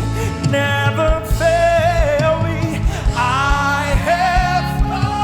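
Live gospel praise music: a worship band with bass and drums under voices singing a held melody, the kick drum steady at about two beats a second.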